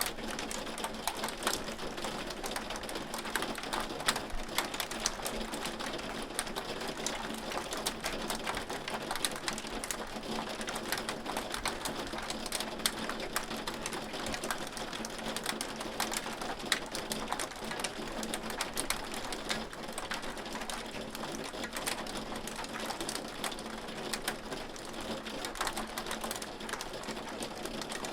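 Hail falling steadily: a dense, rapid clatter of hailstones striking a surface, with a few louder single hits standing out.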